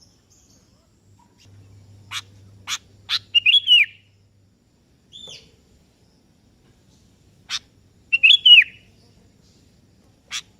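Sooty-headed bulbul (kutilang) calling: a few sharp, short chip notes, then a brief phrase of whistled notes that slide down in pitch, repeated twice with a pause between.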